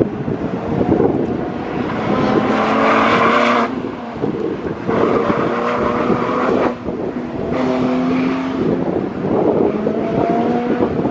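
Sports car engine pulling hard at high revs through an autocross cone course. It rises in pitch, then cuts back sharply a few times as the driver lifts or shifts between gates.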